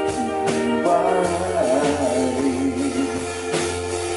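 Rock band playing a song: a sung line, then a long held note with a wavering pitch, over guitars, bass and drums.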